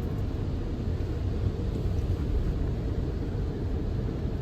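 Steady low rumble of a car heard from inside the cabin at an automatic car wash.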